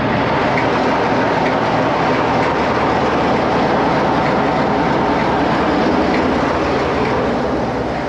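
Train running on the track: a loud, steady noise that does not change.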